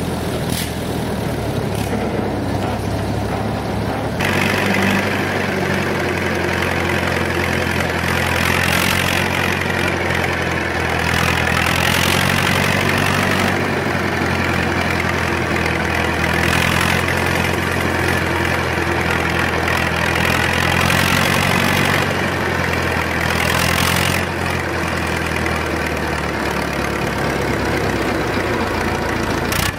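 Old tractor engine running steadily at a low, even speed, with a louder, brighter stretch through most of the middle.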